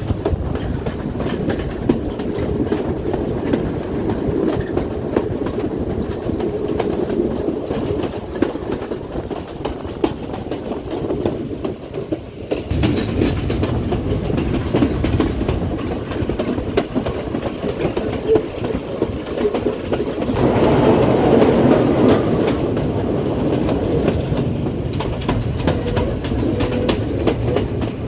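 Passenger train running along the line, its wheels clattering over the rail joints in a steady rumble of clicks, growing louder for a few seconds about three-quarters of the way through.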